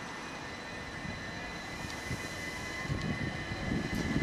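Southern Class 377 Electrostar electric multiple unit running through a station at speed, its rumble of wheels on rails growing louder from about three seconds in as it reaches the camera, over a steady high whine.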